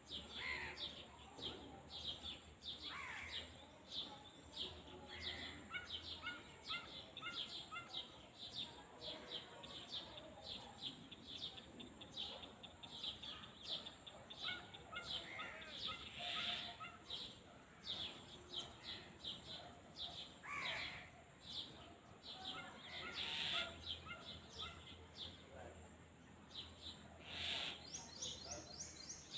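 Small birds chirping and singing, with many short high calls overlapping and a few longer sweeping calls among them.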